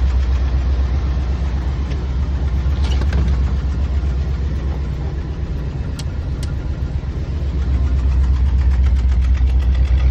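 1966 Ford Thunderbird's V8 idling steadily with an even low rumble. A few sharp clicks come around the middle.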